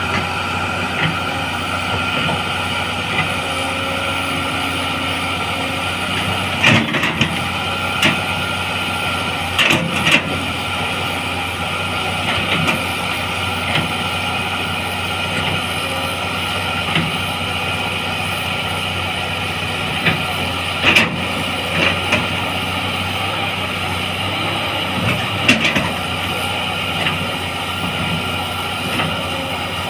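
Caterpillar hydraulic excavator's diesel engine running steadily under load with a whine from the hydraulics, as the machine tries to climb out of mud on a weak travel motor. A handful of sharp metallic clanks break in now and then.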